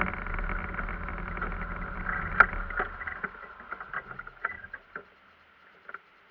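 A vehicle engine running, then dying away over the first few seconds, with scattered clicks and knocks, one sharp knock louder than the rest.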